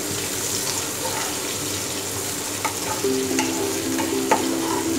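Chopped onion sizzling in hot oil with tempering spices, stirred with a wooden spatula that scrapes and taps against the pan a few times.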